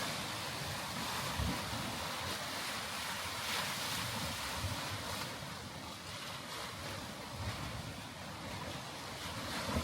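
Lake Michigan waves washing against the shoreline, a steady rushing, with wind buffeting the microphone in a few brief low thumps.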